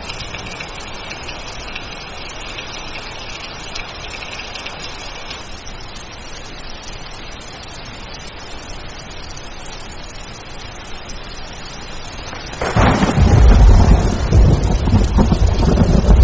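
Steady rain falling, then about thirteen seconds in a loud roll of thunder breaks in and rumbles on, heavy in the low end.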